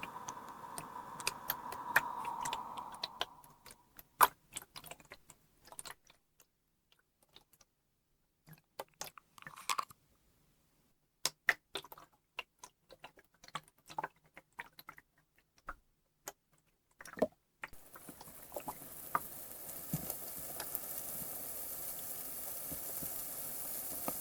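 Scattered small clicks and taps, then, from about eighteen seconds in, carbonated water fizzing: a steady hiss with tiny crackling pops.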